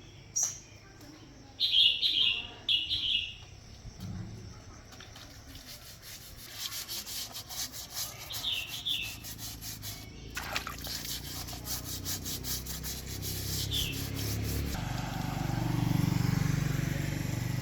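Small birds chirping in short bursts, several times. Between the chirps comes a fast, even run of rubbing or rasping strokes. Near the end a low motor hum comes in and grows.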